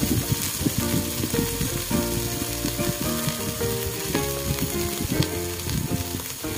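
Chicken pieces sizzling steadily as they fry in oil in a pan, under background music.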